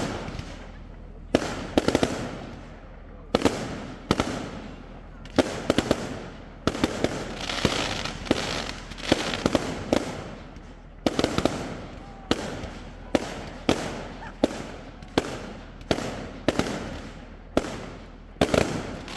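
Bonfire Night fireworks display: a sharp bang about every second, each followed by a crackling, fizzing tail.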